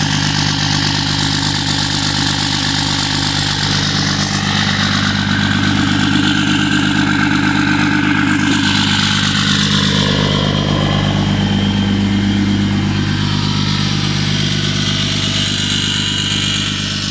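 A 5.9 Cummins diesel in a 2006 Dodge Megacab, running steadily at idle through a 4-inch straight-pipe exhaust.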